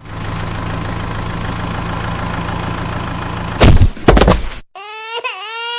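Engine idling steadily, then a few loud bangs a little past three and a half seconds in. After a brief silence, a long held high tone starts, dipping in pitch once before holding steady.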